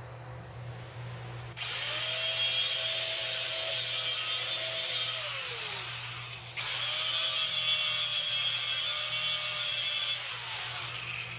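A handheld electric power tool is run twice for about four seconds each, cutting or grinding with a loud hiss. Its motor whine rises as it spins up and falls away as it stops.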